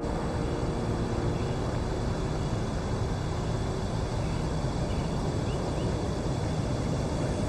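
Steady outdoor background ambience: an even low rumble with a few faint, short high chirps around the middle.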